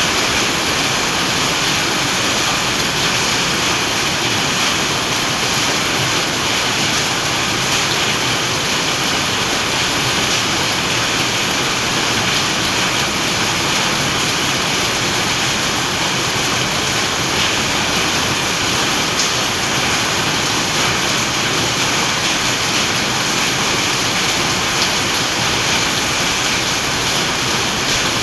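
Steady, continuous rain falling, an even hiss that does not let up.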